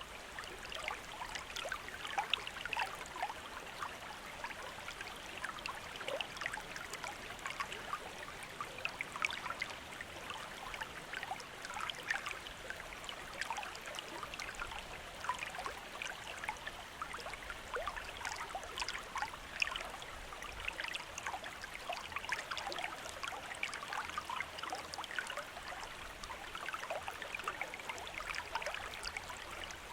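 Shallow stream of running water babbling steadily, with many small splashes and trickles over a continuous rush.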